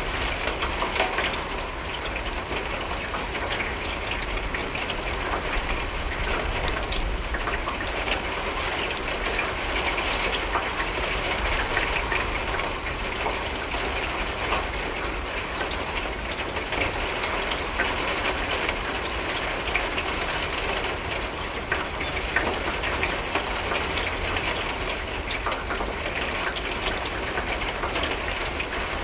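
Steady rain striking a window, with many small drop ticks over an even hiss and a low rumble underneath.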